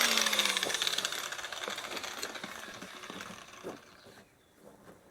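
An electric power tool's motor winding down after being switched off, its pitch falling and its running noise fading away over about four seconds, with a few light clicks and knocks from handling along the way.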